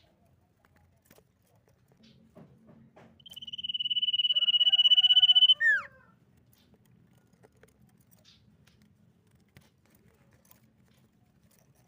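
Common iora singing one long, high, steady whistle that swells in loudness for about two seconds, then drops away in a quick falling note. A faint low hum and a few small clicks lie underneath.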